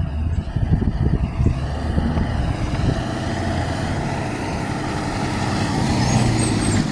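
UPS delivery truck's CNG engine running as the truck pulls away, its low drone getting steadily louder.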